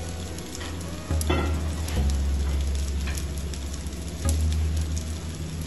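Beef steaks sizzling on a hot cast-iron grill pan: a steady frying hiss with scattered small pops and crackles, over a low steady hum.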